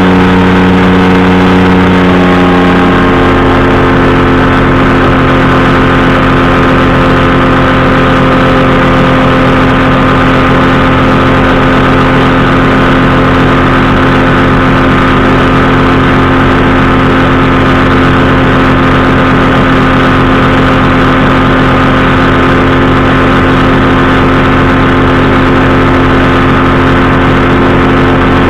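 Powered parachute's engine and propeller running loud and steady, shifting to a new steady pitch about two to three seconds in.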